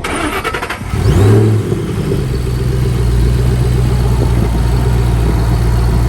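Shelby's supercharged V8 engine blipped once about a second in, then idling steadily and loudly.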